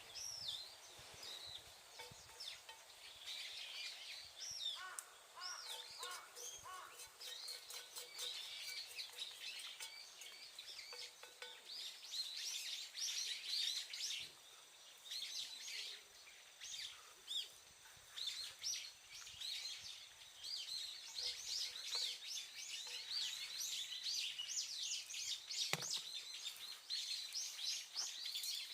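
Wild birds chirping and calling, a dense run of short high calls, with a single sharp knock near the end.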